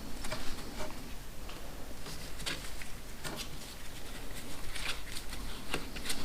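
Scattered light clicks, ticks and rustles of hands working on motorcycle parts, a few sharper taps among them.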